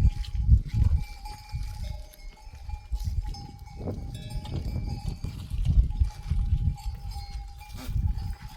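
Bells on grazing sheep and goats clinking and ringing as the flock moves, one bell note holding through most of the stretch. An uneven low rumble sits underneath.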